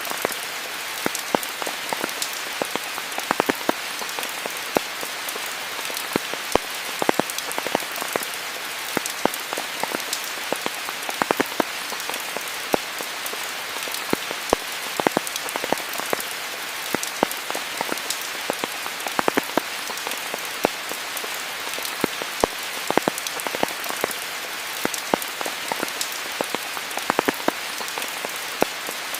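Steady heavy rain falling on foliage, an even hiss with many close, sharp individual drops hitting leaves and other surfaces.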